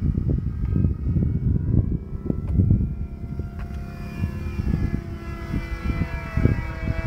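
Radio-controlled model airplane's engine and propeller whining in flight, the pitch sliding as the plane flies past, with wind buffeting the microphone.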